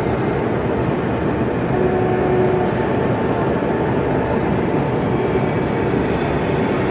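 Steady background noise of a busy exhibition hall, with a 0 gauge model train running on the layout.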